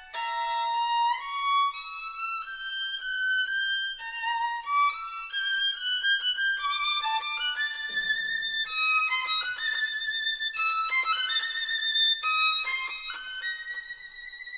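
Solo violin playing a melody of stepping notes with brief pauses.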